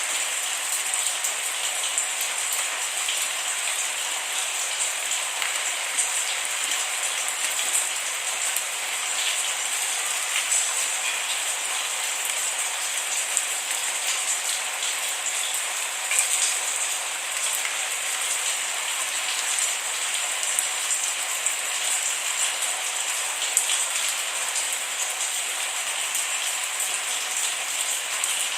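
Steady rain falling, with a dense patter of individual drops and no thunder.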